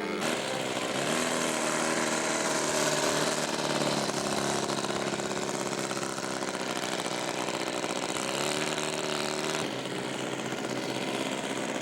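Twin-cylinder opposed gas engine of a quarter-scale R/C Piper Cub floatplane running at low throttle as it taxis on the water after landing, its pitch rising and falling a few times with throttle changes.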